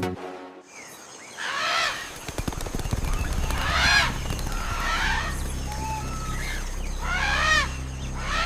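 Birds calling, about four separate calls of quick, stacked arching notes, over a steady low hum.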